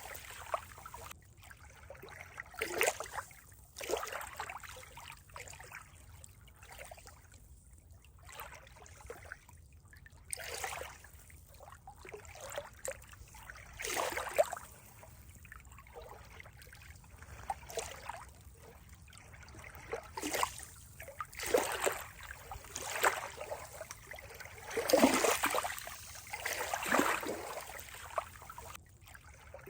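Water trickling and splashing in uneven surges every one to three seconds, with no steady rhythm.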